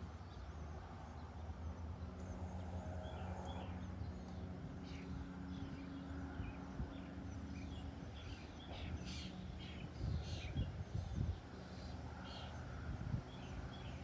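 Small backyard birds chirping, many short separate calls, over a steady low hum, with a few low bumps about ten seconds in.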